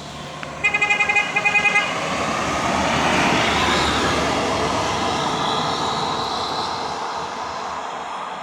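A vehicle horn sounds a quick string of about ten short toots lasting just over a second. Then a heavy truck passes close by, its engine and road noise swelling to a peak about three seconds in and slowly fading.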